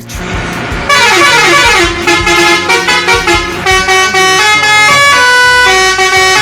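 Vehicle horns honking in a run of held notes at changing pitches, after a short whoosh at the start.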